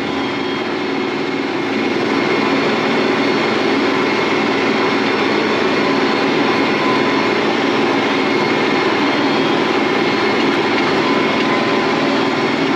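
Farm tractor's diesel engine running steadily while pulling a field cultivator, heard from inside the cab, with a few faint steady whines over the engine noise. It gets a little louder about two seconds in.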